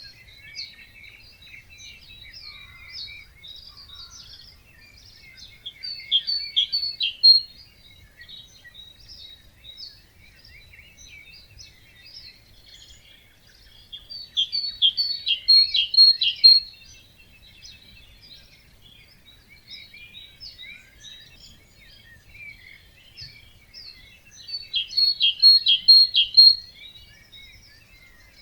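Wetland birds singing at dawn: one songbird repeats a loud song phrase three times, about nine seconds apart, each a quick run of notes ending in a few high ones. Quieter chirping from other birds fills the gaps, over a faint low rumble.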